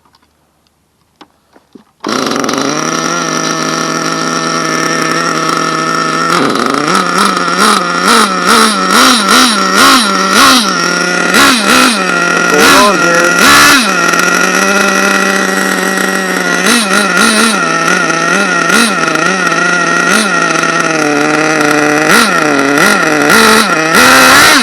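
A small two-stroke nitro RC engine, an HPI 4.1, starts up about two seconds in and runs at a high, buzzy idle, then has its throttle blipped over and over, the pitch jumping up and falling back with short steady idles between the runs of blips.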